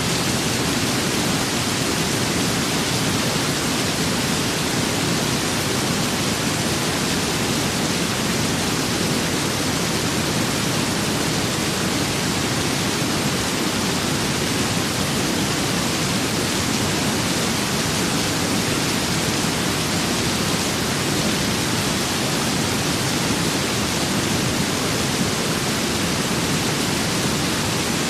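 Steady rain with wind: an even, dense hiss that holds at one level, with no single drops or gusts standing out.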